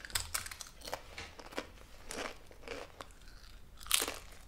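Crisps being bitten and chewed close by: a run of small, irregular crunches, with a louder crackle near the end.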